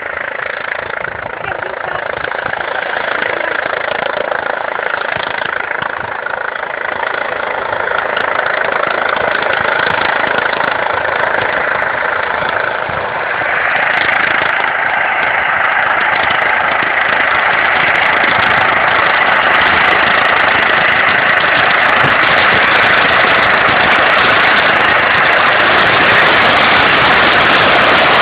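Helicopter running: a steady engine and rotor din that grows gradually louder, stepping up about thirteen seconds in.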